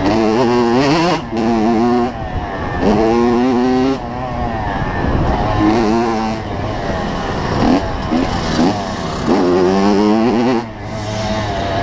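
Two-stroke 85cc motocross bike engine revving up and dropping off again and again as the throttle is worked, its pitch climbing in a series of rises a second or two apart.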